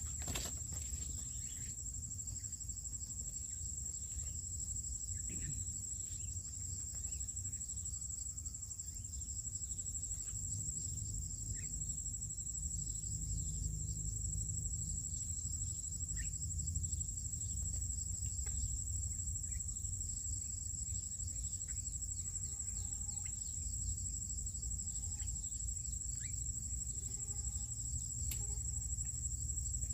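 An insect, likely a cricket, trills steadily at a high pitch, with a low steady rumble underneath and a few short, faint chirps scattered through it.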